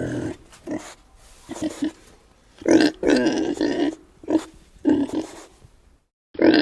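Pig grunting: a run of short grunts in irregular bursts, with a longer, louder stretch of grunting around the middle.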